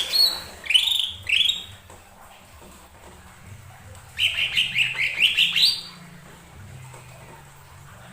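Cucak ijo mini (lesser green leafbird) singing: short, sharp rising chirps, a few near the start, then a quick run of about eight about four seconds in.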